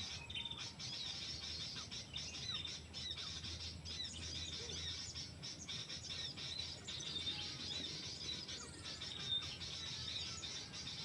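Small wild birds chirping: many short, high, repeated notes several times a second over a steady high hiss.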